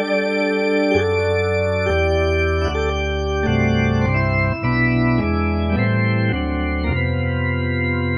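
Roland XP-80 synthesizer playing an organ-type factory preset: sustained chords that change about once a second, with bass notes coming in about a second in.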